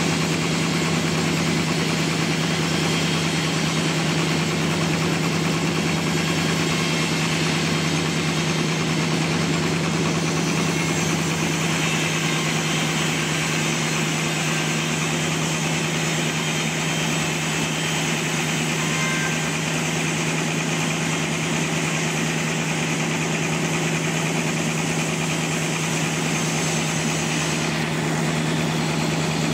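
Sawmill engine running steadily at constant speed, a continuous hum.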